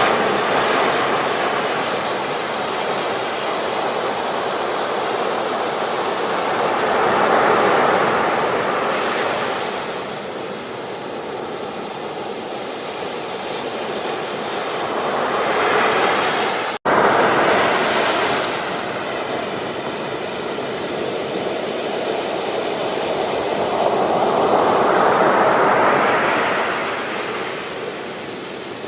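Ocean surf: waves breaking and washing up a beach, swelling and fading in slow surges about every eight to nine seconds. The sound cuts out for a split second about two-thirds of the way through.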